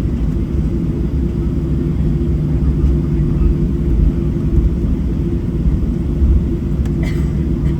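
Steady low cabin rumble of a Boeing 737-700 with its CFM56 turbofan engines running, heard from inside the passenger cabin. A couple of steady hum tones sit under the rumble. A faint brief click comes near the end.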